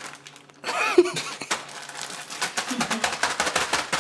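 Rapid crackling and tapping of biscuits and pancakes being mashed in a plastic bag, after a brief vocal sound about a second in.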